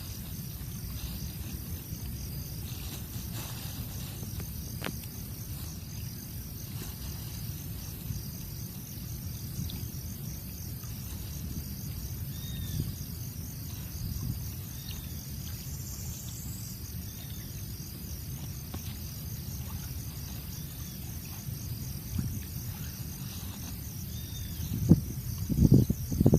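Outdoor ambience of insects chirping steadily in an even pulsing rhythm over a low rumble, with a few faint short chirps here and there. There are louder knocks and rustles near the end.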